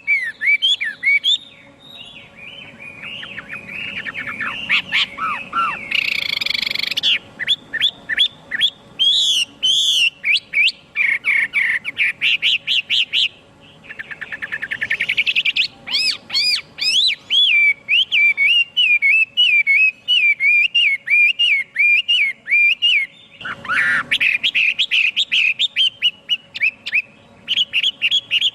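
Chinese hwamei singing a long, varied song of rapid whistled phrases, with quickly repeated notes and a harsh rasping note about six seconds in.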